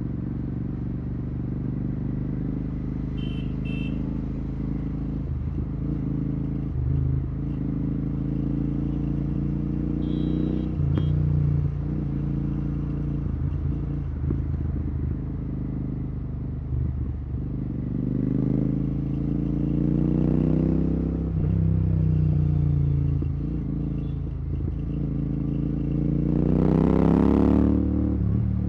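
Royal Enfield Continental GT 650's parallel-twin engine through a Red Rooster aftermarket exhaust with no dB killer, its note rising and dropping through throttle and gear changes. It climbs steeply in one hard acceleration near the end.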